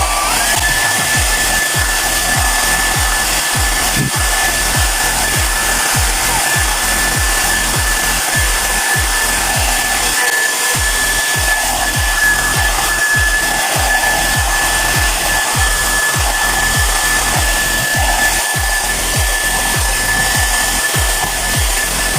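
Gaabor hair dryer running on its high-speed hot air setting, blowing steadily. Its motor whine rises to a steady high pitch within the first second and then holds.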